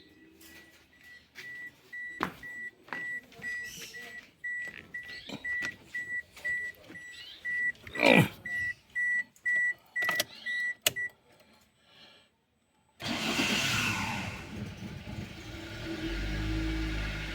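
A car's warning chime beeping about twice a second, with scattered clicks and knocks. About thirteen seconds in, the Toyota Corolla VVTi's freshly rebuilt starter cranks and the engine starts and settles into a steady idle, with no starter grinding.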